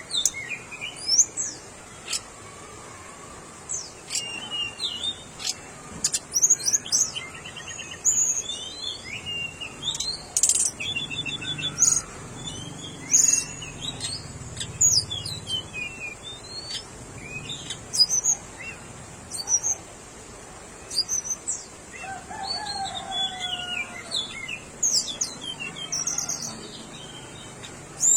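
Tickell's blue flycatcher singing: repeated short, high twittering phrases of quick rising and falling notes, with brief pauses between them.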